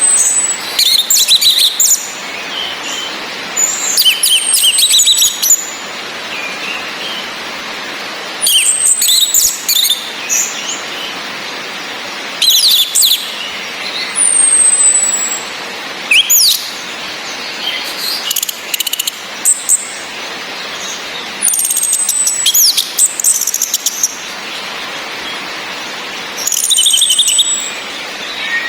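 Orange-headed thrush calling in repeated bursts every few seconds: rapid high notes, each burst with a thin falling whistle, over a steady hiss of rain.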